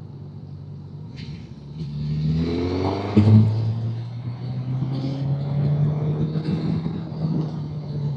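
Motorcycle engine heard from the rider's position, running steadily and then accelerating about two seconds in, its pitch rising, with a sudden louder moment just after three seconds before it settles into a steady run.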